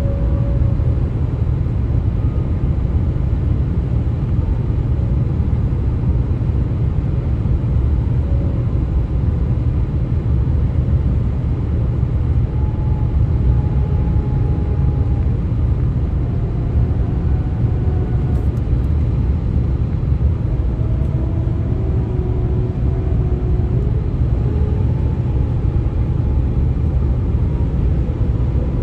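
Steady low road rumble of a vehicle travelling on the US-127 highway, with faint wavering, moaning tones that slide slowly up and down in pitch over it: the highway's 'ghost noises'.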